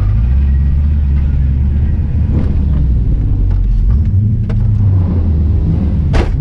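Straight-piped V8 engine running at low revs with a steady low rumble. A sharp click sounds near the end.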